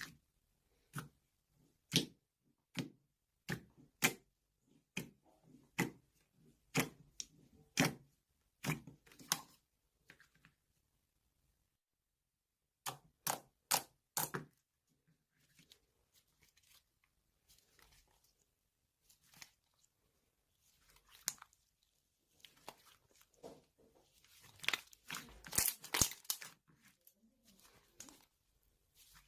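A series of sharp taps, about one a second at first, then three in quick succession, followed by scattered rustling and crinkling handling noise.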